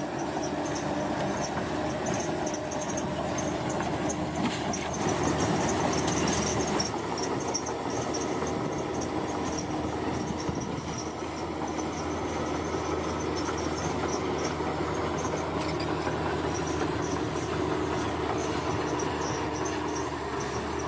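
Bulldozer's diesel engine running steadily under load, with a steady thin high-pitched whine above it. It swells slightly about a quarter of the way in.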